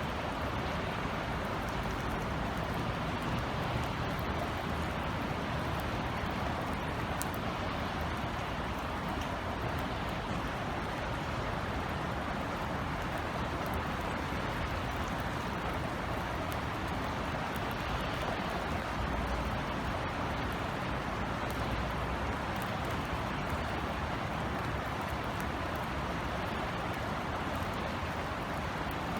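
Steady rain falling, an even hiss with scattered sharp drip ticks, over a low rumble of city traffic.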